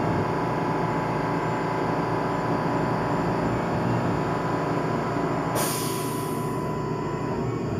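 Tormach PCNC 1100 CNC mill running steadily while machining MIC6 cast aluminium plate, a dense machine noise with several steady tones. About five and a half seconds in, a sharp hiss lasts about a second, after which the sound is a little quieter.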